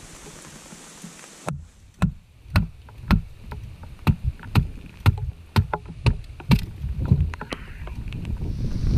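Rain hissing, then a dozen or so irregular sharp taps and knocks, roughly two a second. Near the end the rain noise swells again.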